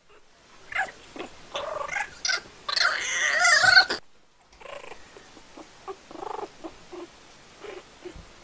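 A cat's angry yowling in a fight with a dog, a run of wavering cries that is loudest about three seconds in, then softer, scattered sounds from the animals.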